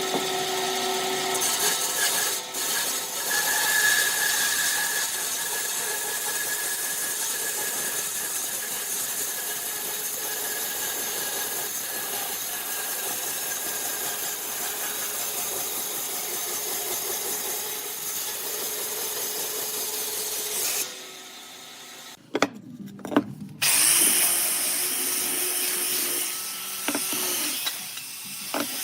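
A power tool working wood, running steadily for about twenty seconds and then stopping. A few knocks follow, and the tool runs again for the last few seconds.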